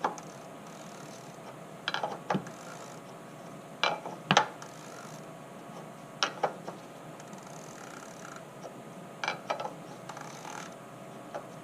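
Ratchet wrench clicking in short bursts, about five groups every two to three seconds, as it tightens the oil filter housing cap down to snug.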